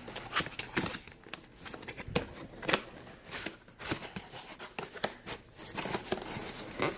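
A cardboard box being opened by hand: irregular clicks, scrapes and rustles of cardboard and packaging.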